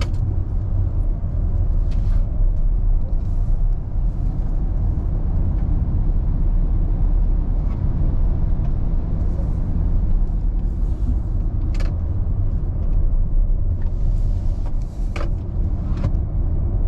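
Cabin noise of an electric Volkswagen ID under way at speed: a steady low rumble of road and tyre noise with no engine note, broken by a few brief clicks.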